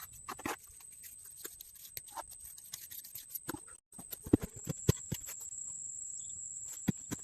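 Irregular light knocks and clicks, a few louder ones in the second half, over a faint steady high-pitched tone.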